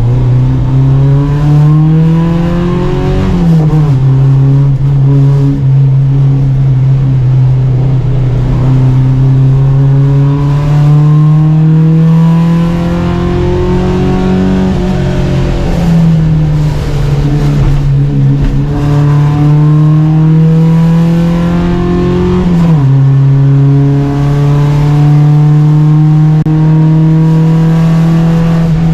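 Volvo Amazon 121 race car's four-cylinder engine pulling hard under racing load, heard onboard. Its pitch climbs through the gears and drops sharply at upshifts about 3 seconds in and again near the end, with a lift and steadier running in between.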